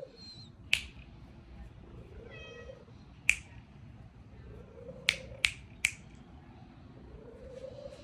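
Five sharp snapping clicks, the last three coming quickly one after another, among faint low pitched animal calls.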